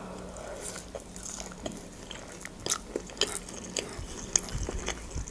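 Close-miked chewing of a soft mouthful of pan-fried cutlet and mashed potato: irregular wet mouth clicks and smacks, a few a second.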